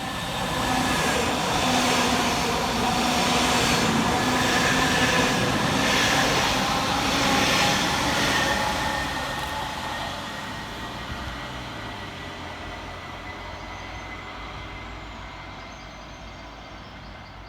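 Two coupled Class 331 electric multiple units passing fast through the station, with wheels on rail and the whine of their electric traction gear. The sound builds about a second in, holds loud for several seconds, then fades away as the train recedes.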